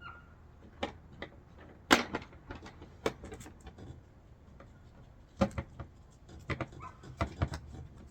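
A series of sharp knocks, clicks and clunks, the loudest about two seconds in, from a plastic ATV cargo box and its mounting hardware being handled and set on the rear rack for a test fit.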